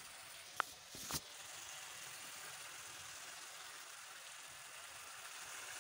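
Chicken karahi being fried in ghee in a pan, a faint steady sizzle as the masala cooks down until the ghee separates. Two light knocks about half a second apart near the start.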